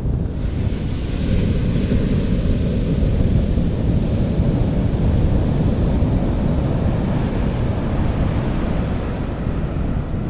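Sea waves breaking and washing on a beach: a hissing wash of surf swells about half a second in and slowly fades. Wind buffets the microphone throughout as a heavy low rumble.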